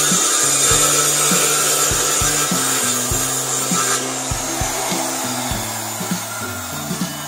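Power tool working pallet wood, a steady noise that is loudest for the first half and then eases off.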